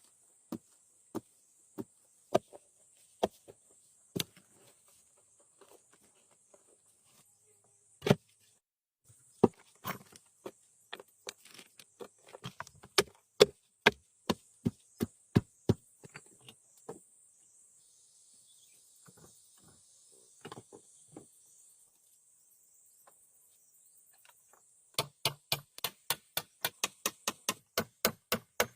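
Sharp knocks of a tool striking wood, spaced irregularly at first, then a quick even run of about four strikes a second near the end. A steady high insect drone lies underneath.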